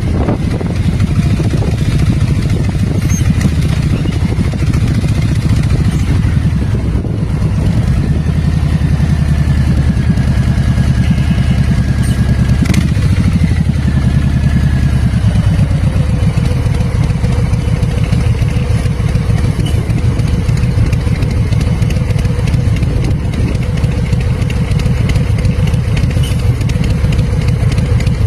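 Bobber motorcycle engine running steadily and loudly, with a fast even exhaust pulse, and one brief click about halfway through.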